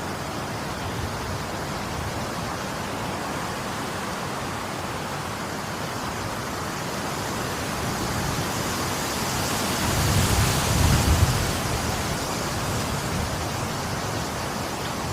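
Steady rain falling, an even hiss, with a swell about ten seconds in where a low rumble rises under a louder burst of rain before it settles again.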